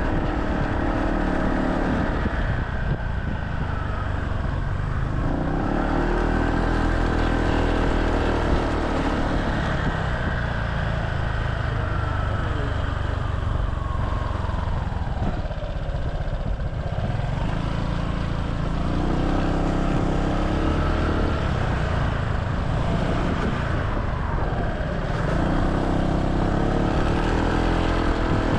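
Motorcycle taxi engine running under the rider, its pitch climbing and dropping several times as it speeds up and slows in traffic, over a steady rush of road noise.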